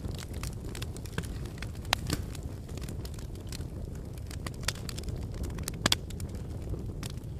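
Fireplace fire crackling, with scattered sharp pops over a steady low rumble of the flames; the loudest pops come about 2 seconds in and again near 6 seconds.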